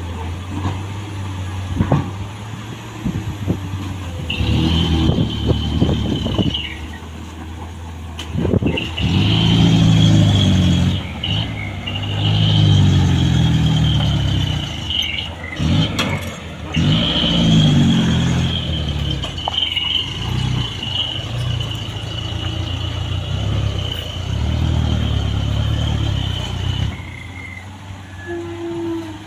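Heavy diesel engine revving in repeated surges under load, as the dump truck struggles to climb the slope, with a steady high whine over most of it.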